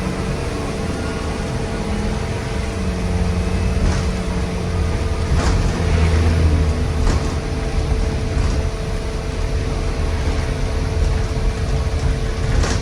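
A 2019 Blue Bird Vision school bus's gasoline engine pulling under acceleration, with its engine cooling fan running, heard as a low rumble under a constant steady tone. The rumble swells about halfway through, and a few short rattles or clicks cut through.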